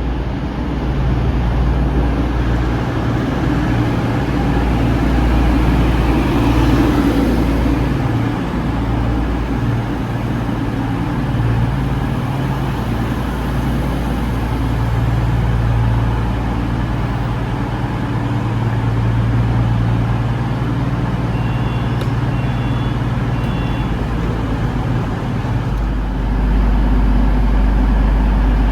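A train at the station platform gives a steady low rumble that swells gently. A few faint short beeps come about two-thirds of the way through.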